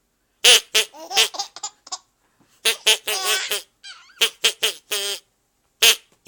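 Five-month-old baby giggling in repeated short bursts of laughter, with brief pauses between them.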